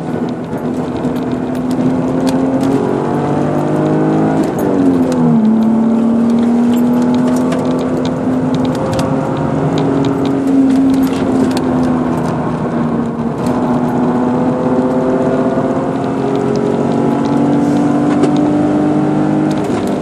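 Car engine heard from inside the cabin while lapping a race track. It pulls steadily, falls sharply in pitch about five seconds in, then holds and slowly climbs again, with light clicking rattles over it.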